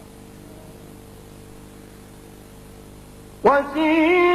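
Steady electrical hum and faint hiss for about three seconds, then a male reciter's voice comes in loudly, opening a new melodic phrase of Quran recitation near the end.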